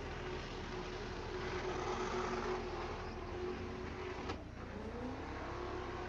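Chevrolet truck's LS V8 held at high revs during a burnout. About four seconds in the engine note drops off sharply, then the revs climb again.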